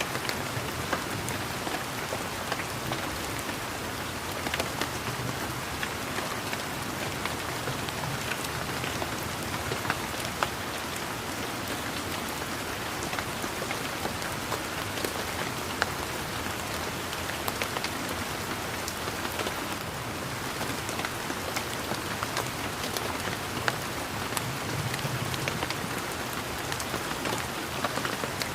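Steady rain falling, a continuous hiss dotted with the patter of many individual raindrops.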